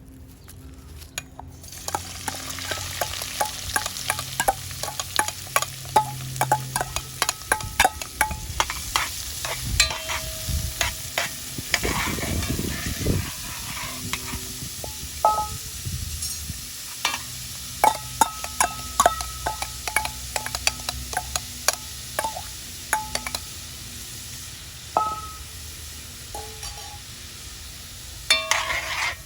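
Food sizzling as it fries in a pan, stirred with a utensil that clicks and scrapes against the metal pan, some strokes leaving a brief ring. The frying hiss picks up about two seconds in.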